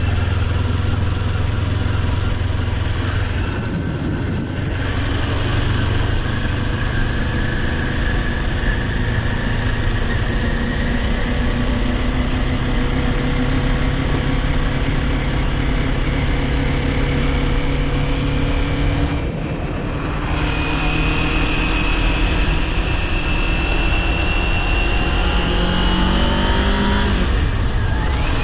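Kawasaki Ninja 400's parallel-twin engine pulling under way, its pitch rising slowly through each gear. There are three brief breaks in the sound for gear changes, at about 4 seconds, midway through and near the end.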